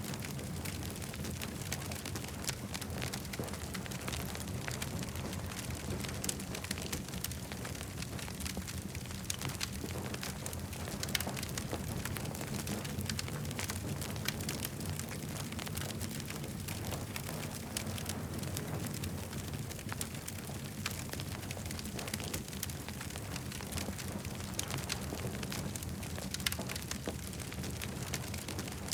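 Wood campfire burning with a steady low rumble of flame and many small sharp crackles and pops throughout, a few louder pops standing out.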